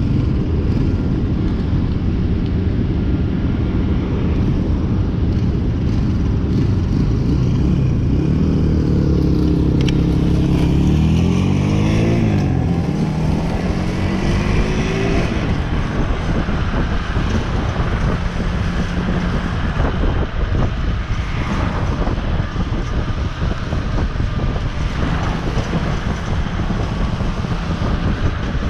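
Motorcycle engine running steadily, then revving with pitch rising and dropping back several times, as on gear changes, about eight to fifteen seconds in. After that it gives way mostly to heavy wind and road noise.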